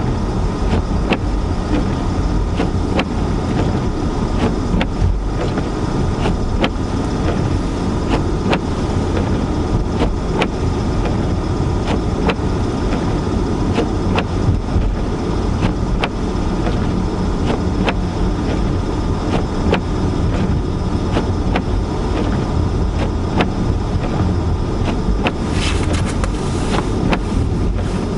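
Car driving through heavy snow, heard from inside the cabin: a steady low rumble of engine and tyres with regular sharp ticks, and a short burst of hiss near the end.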